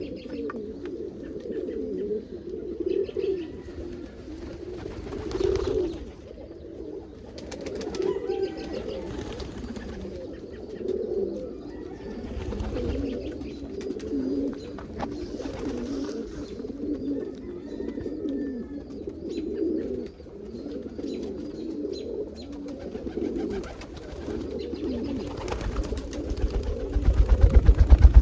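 A loft full of domestic pigeons cooing continuously, many birds overlapping in a low warbling chorus. Near the end a loud, pulsing low rumble comes in over the cooing.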